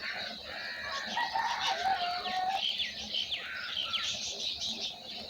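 A chorus of small birds chirping and twittering, with several quick falling whistles. About a second in, a larger bird gives one held, lower call lasting about a second and a half.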